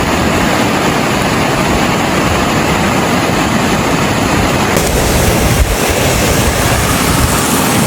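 Loud, steady rushing of fast-moving floodwater. The sound changes abruptly about five seconds in, becoming brighter and hissier.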